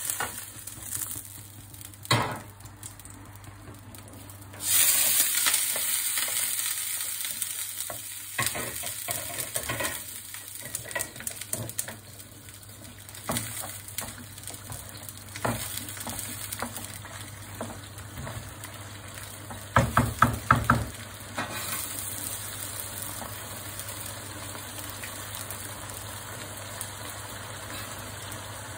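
Chicken and chopped peppers sizzling in oil in a karahi while a wooden spoon stirs them, scraping and knocking against the pan. The sizzle is loudest about five seconds in, and a quick run of sharp knocks comes about twenty seconds in.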